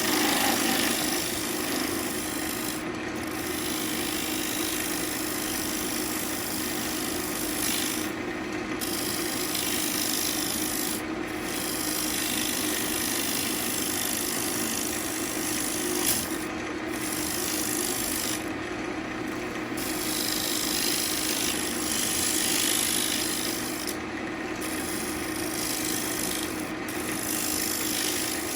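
Turning tool cutting a spinning ambrosia maple bowl blank on a wood lathe: a steady scraping hiss of wood being cut. The cut breaks off briefly about seven times as the tool comes off the wood, and a steady lathe motor hum runs underneath.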